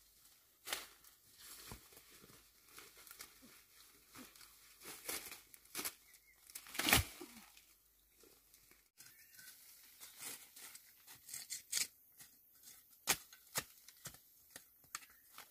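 Leaves and stems being torn and crumpled by hand, an irregular run of faint crackles and rustles with one sharper crackle about seven seconds in.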